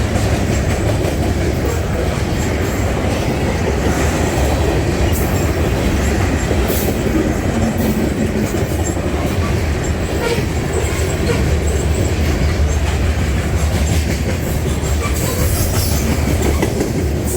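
A Canadian National train rolling past close by: a steady, heavy rumble of wheels on the rails, with occasional sharp clacks.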